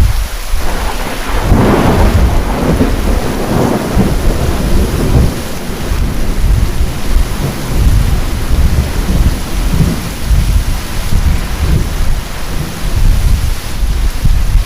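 Thunderstorm: heavy rain falling steadily while thunder breaks with a loud crash about a second in, then rolls on as a deep rumble.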